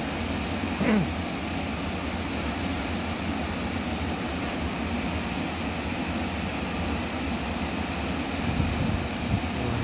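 JR West 923 series Doctor Yellow Shinkansen test train moving slowly past, a steady low rumble and hum of its running gear and onboard equipment.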